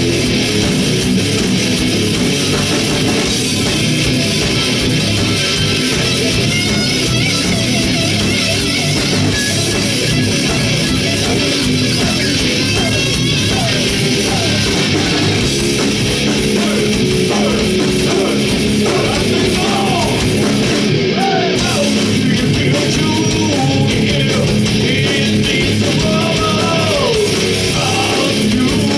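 A heavy rock band playing loud and without a break: distorted electric guitar over a drum kit.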